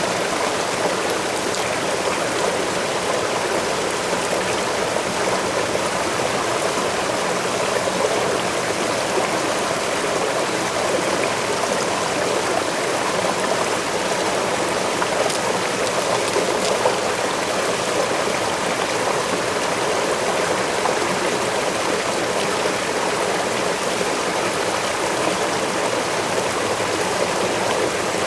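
Waterfall and stream water rushing in a steady, even flow.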